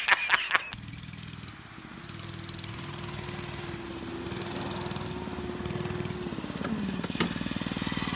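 Mini bike's small engine running steadily, its pitch dropping near the end as it eases off.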